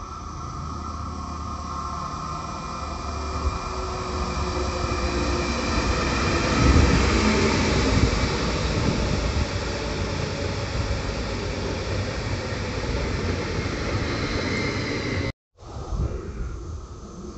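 A train running through the station, its noise building to a peak about seven seconds in and carrying on steadily, then cutting off suddenly about fifteen seconds in.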